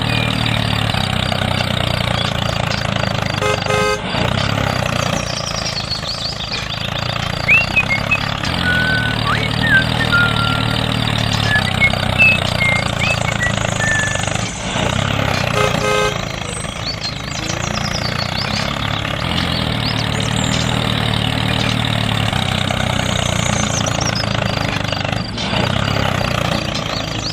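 A vehicle engine running steadily, with a few short high chirps around the middle.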